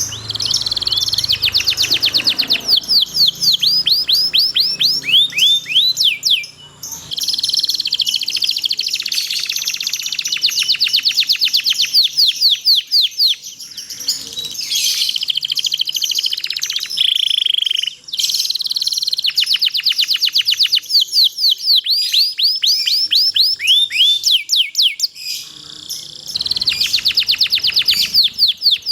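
Domestic canary singing: long rolling runs of fast repeated chirps and trills, broken by a few short pauses.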